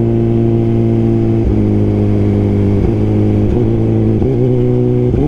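Suzuki GSX-R1000R inline-four running on the move through a Brocks Alien Head 2 full exhaust, its note dropping in short steps about four times, then jumping up near the end.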